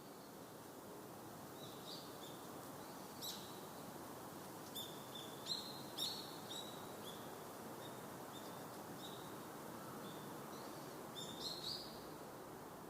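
Small birds chirping in short, high notes, in a few clusters, over a steady faint outdoor background hiss.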